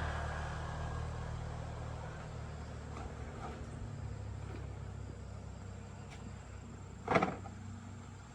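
Small motorbike engine running steadily, its low hum slowly fading, with one short loud rasp about seven seconds in.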